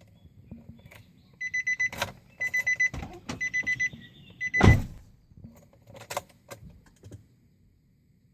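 Electronic car warning chime beeping in quick runs of high-pitched pulses, four runs in a row, mixed with several clicks and one loud thump a little before the middle.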